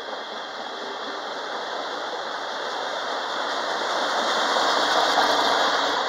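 Train passing on the main line: wheel and rail noise that swells steadily, loudest about five seconds in, then eases a little.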